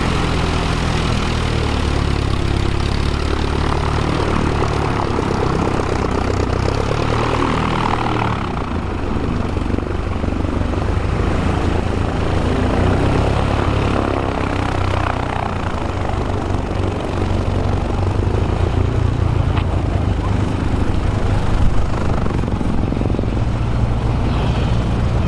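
An aircraft flying at an airshow: a steady, loud engine or propeller drone with a low throb.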